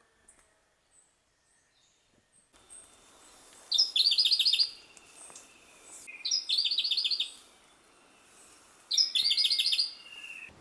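A songbird sings the same short phrase three times, each about two and a half seconds apart. Each phrase is a quick run of about half a dozen high, evenly repeated notes. Near silence at first; faint forest background sound comes in a couple of seconds in.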